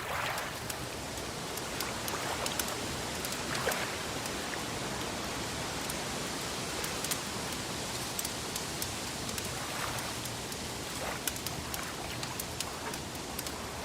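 Wood fire crackling, scattered sharp pops and snaps over a steady hiss.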